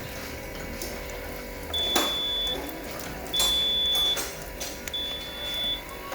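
A high electronic beep repeating about every second and a half, each beep just under a second long, over a steady hum, with a few short knocks.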